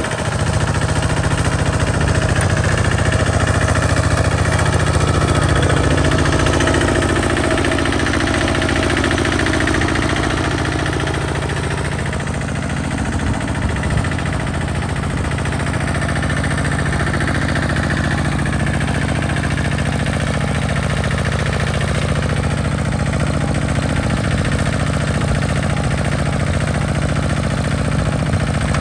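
Single-cylinder diesel engine of a Hinota two-wheel walking tractor running steadily under load while it ploughs soil, with a rapid chugging beat. Its pitch sags briefly near the middle.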